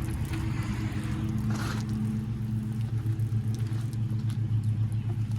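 A large engine running steadily at idle, a low, slightly pulsing drone, with a short hiss about a second and a half in.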